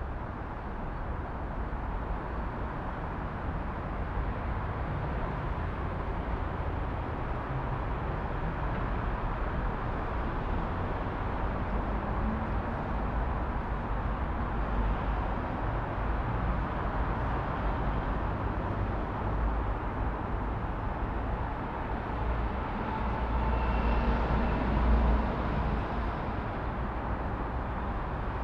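City traffic ambience: a steady rumble of passing cars, swelling louder for a couple of seconds near the end.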